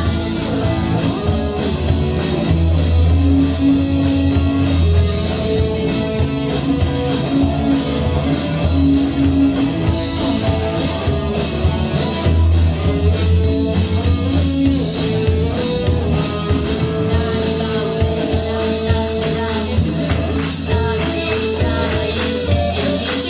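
Rock band playing: a singer over electric guitar, bass and drum kit, without a break.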